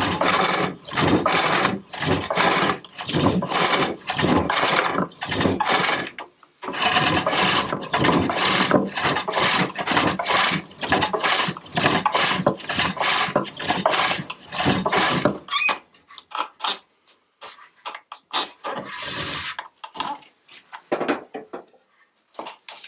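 Hook tool cutting a large walnut bowl on a foot-powered pole lathe: a rasping cut with each downstroke of the treadle, in a steady rhythm of two to three strokes a second. The cutting stops briefly about six seconds in, then picks up again. After about fifteen seconds it gives way to scattered light scrapes and knocks.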